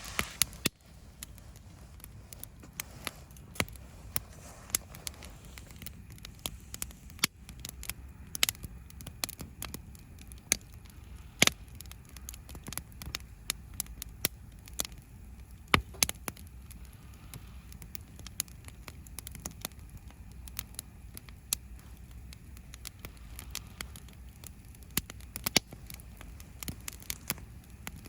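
Wood campfire crackling: irregular sharp pops and snaps, some louder than others, over a steady low rumble.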